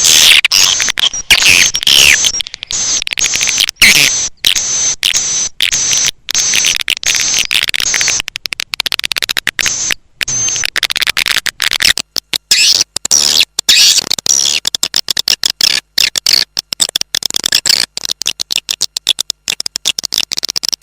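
Swiftlet (walet) call recording: a dense chorus of high chirping and twittering, broken by rapid clicks. It is a lure call of the kind played at swiftlet nesting houses to draw the birds in.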